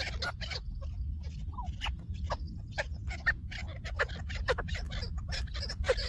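Chukar partridges calling: a dense run of short clucking notes, several a second, over a steady low rumble.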